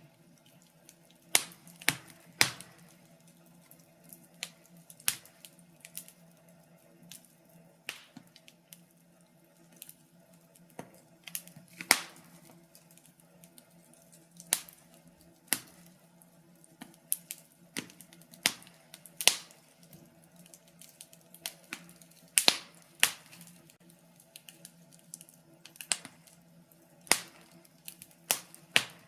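Fireplace fire crackling: irregular sharp pops and snaps, a few much louder than the rest, over a faint steady low hum.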